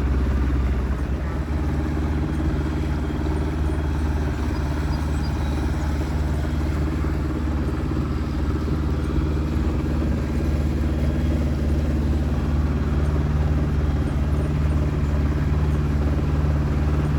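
A sailboat's engine running steadily under way, a constant low drone.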